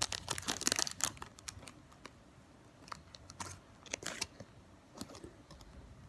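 Hands handling a squishy toy and its tags: a quick cluster of small clicks and rustles in the first second, then scattered ticks a few seconds in.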